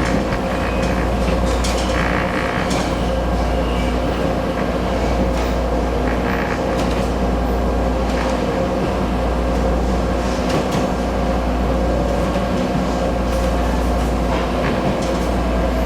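Train running at a station, a steady rumble with a constant hum and scattered clacks from the wheels and track.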